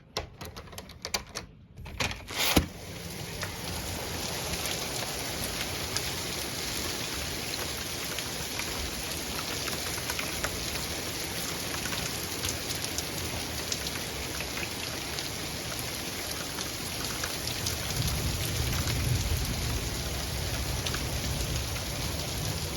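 A few clicks and knocks, then heavy rain becomes suddenly loud about two and a half seconds in and pours steadily onto hard surfaces, with large drops pattering. Near the end a low rumble of thunder swells under the rain.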